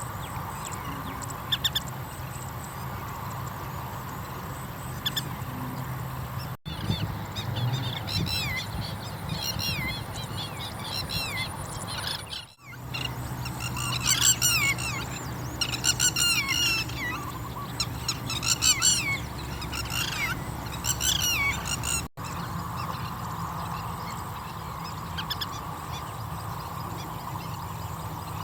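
Oriental pratincoles calling in runs of sharp, down-slurred notes, in clusters from about eight seconds in to about twenty-two seconds: adults calling around their newly hatched chicks. A steady low hum lies underneath, broken by three very short silent gaps.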